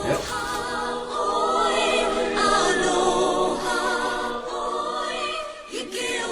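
A choir singing unaccompanied, several voices holding notes together in harmony. There is a short dip near the end.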